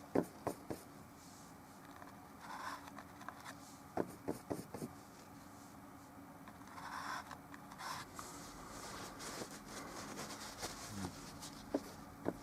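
Oil paint brush rubbing and scraping on canvas, soft scratchy strokes broken by a few sharp taps: a cluster near the start, another about four seconds in, and one near the end.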